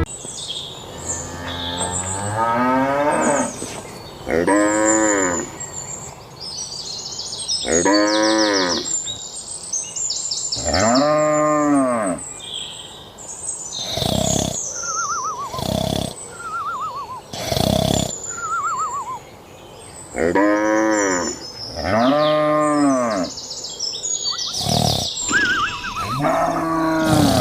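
Cattle mooing over and over, about a dozen separate calls each lasting around a second, the pitch of each rising and then falling, with high-pitched chirping above them.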